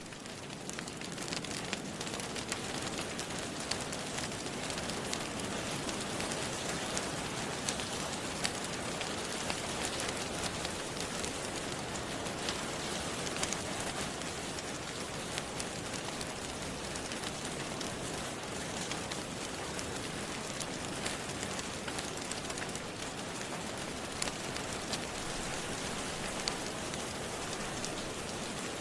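Steady rain hiss with scattered sharp crackles and pops from a wood fire in a fireplace, swelling in over the first second or two.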